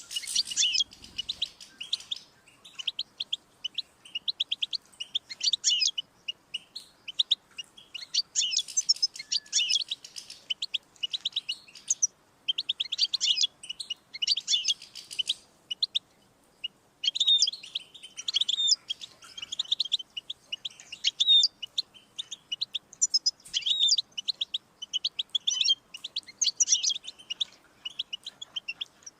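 European goldfinch singing: long runs of rapid, high twittering notes, with a short break about sixteen seconds in.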